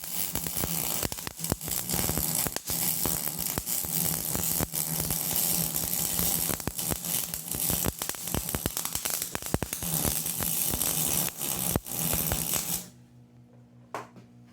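Electric arc welding a joint on heavy steel plate: a steady crackling buzz that starts suddenly and cuts off sharply near the end, as the arc is struck and then broken.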